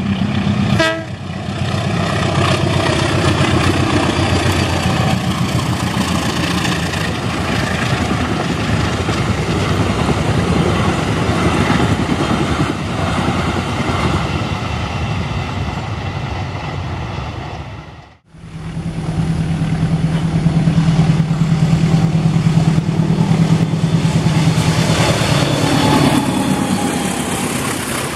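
Passenger trains passing close by: a loud, steady rattle and rumble of the coaches' wheels on the rails. The sound breaks off abruptly about two-thirds of the way through, then another passing train follows with a steady low drone under the wheel noise.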